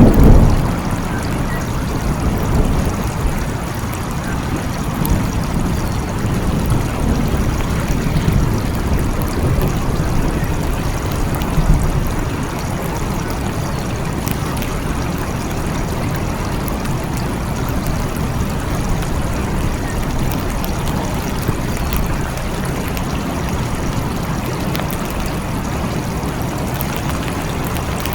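Steady rain with thunder rumbling: a loud roll right at the start and further rumbles over the first twelve seconds or so, after which only the even hiss of the rain remains.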